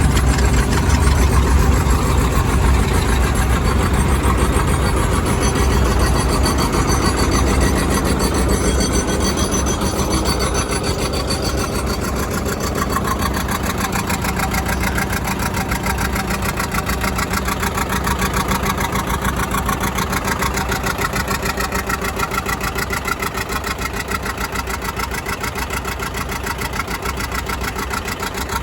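An engine running steadily with an even, rapid firing beat, slowly growing quieter.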